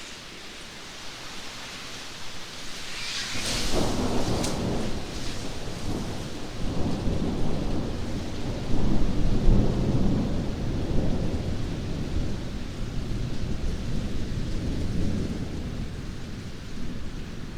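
Steady rain with a thunderclap about three seconds in: a sharp crack, then a long low rumble that rolls on, swells again around nine seconds and slowly dies down.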